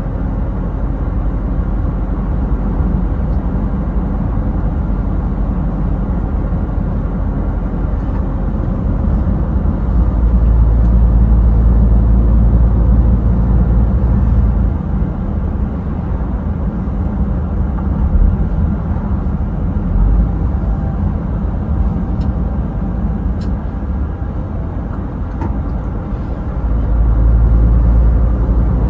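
Scania truck driving on the highway: a steady low engine and road rumble that swells louder and deeper for a few seconds about ten seconds in and again near the end.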